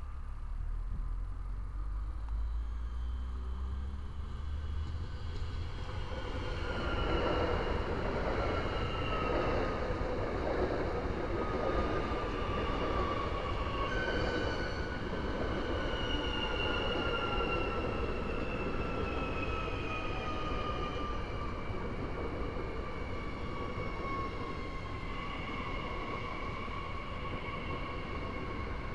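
SNCF Transilien electric multiple unit approaching and then running past close by. At first it is a low rumble; from about six seconds in it becomes a steady noise of wheels on rail, with high whining tones that slowly fall in pitch.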